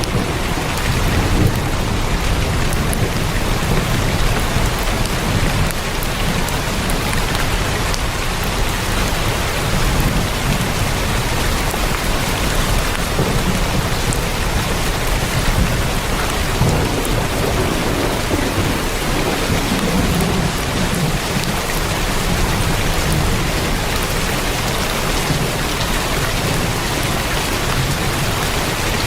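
Heavy rain falling steadily on a tin roof, a dense even hiss with a low, uneven rumble underneath.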